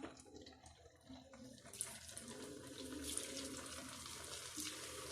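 Rice-flour ring murukku dropped into hot oil in a kadai. After a couple of soft clicks, a steady crackling sizzle starts about two seconds in and grows slightly louder.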